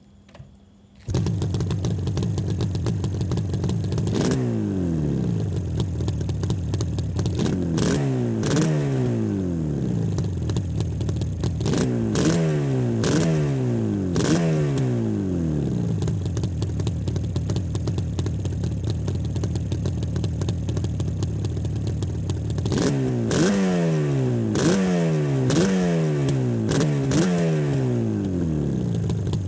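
Escorts Yamaha RD350 HT's air-cooled two-stroke twin, its exhaust idling steadily and blipped in quick throttle revs that fall straight back to idle. The engine sound comes in abruptly about a second in, and the blips come in several clusters, with a long stretch of plain idle in the middle.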